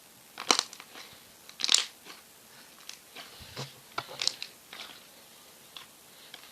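Slime being played with, giving an irregular string of sharp crackles and pops, the loudest about half a second and nearly two seconds in.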